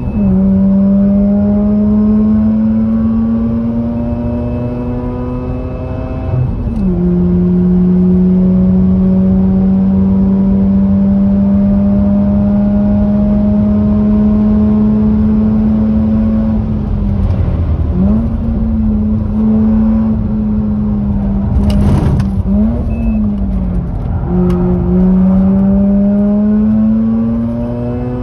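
Mazda RX-8's twin-rotor Wankel rotary engine with an aftermarket catback exhaust, pulling hard on track: the pitch climbs slowly through long pulls and drops at each gear change, one about seven seconds in. Past the middle it dips and rises quickly several times, with a brief sharp knock among them.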